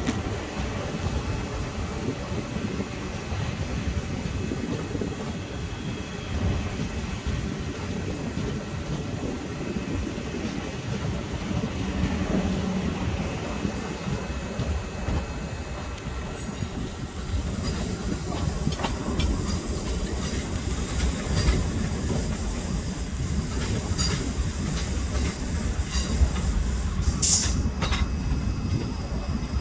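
A train running on the track with a steady low rumble. Wheel clicks come in over the second half, and there is a brief high wheel squeal near the end.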